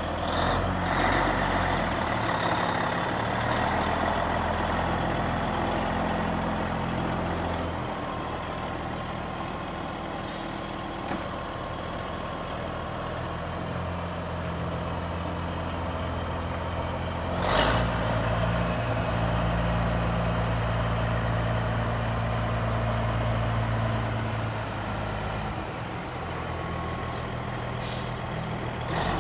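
Cat diesel engine of a 1984 Peterbilt 359 semi truck running at a steady speed that shifts a couple of times, with a short sharp air hiss about seventeen seconds in.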